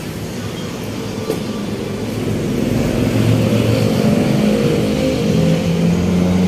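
A motor vehicle engine running and growing louder from about halfway through, as if approaching, over a steady street-noise background.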